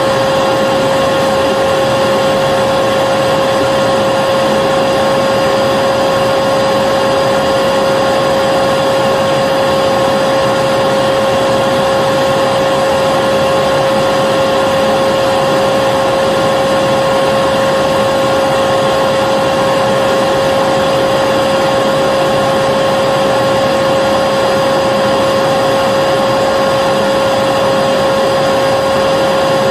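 Vacuum cleaner motor running steadily, a constant rushing whir with a strong, unwavering hum.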